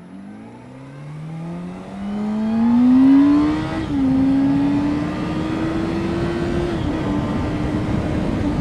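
Vehicle engine accelerating away, its pitch climbing steadily and then dipping briefly twice as it shifts up, over road and wind noise.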